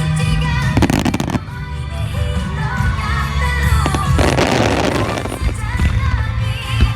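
Fireworks bursting over loud background music: a quick run of bangs about a second in, then a crackling spray around four seconds in.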